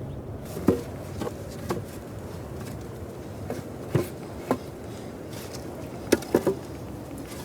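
A series of sharp, short knocks at irregular intervals, some coming in quick pairs or threes, over a steady low background noise.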